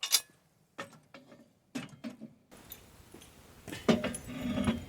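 Loose bolts and small metal parts giving scattered light clicks and knocks as they are handled, with a louder cluster of knocks about four seconds in.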